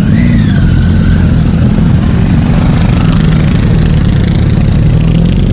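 Many motorcycle engines running together in a loud, steady rumble. A short falling-and-rising tone sounds about a second in.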